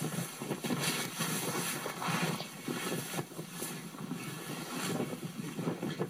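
Avalanche air blast: a rushing, gusting wind buffeting the microphone, swelling and easing in uneven surges.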